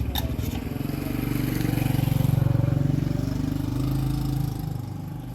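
An engine running with a rapid low pulsing, growing louder about two seconds in and easing off near the end.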